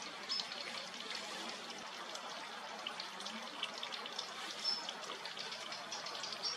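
Steady trickling of running water, with a few faint, short, high bird call notes now and then, which fit the Meadow Bunting.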